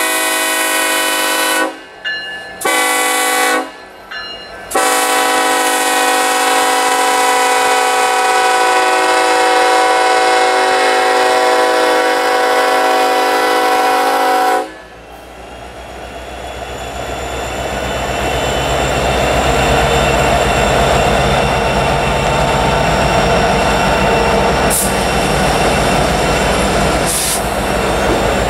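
Diesel freight locomotive's air horn sounding a chord in several blasts: a couple of short ones, then one long blast held about ten seconds that cuts off. The locomotive then passes working hard on the mountain grade, its engines rumbling loudly with rail and wheel noise, and a couple of sharp clanks near the end.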